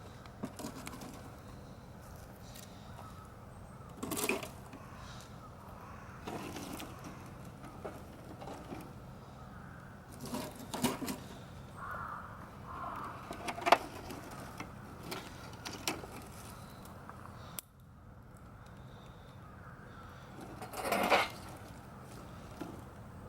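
Wood campfire crackling, with scattered small snaps and pops and one sharper pop a little past the middle. A few louder rushing noises of about a second stand out, around four seconds in, around ten to eleven seconds in, and near the end.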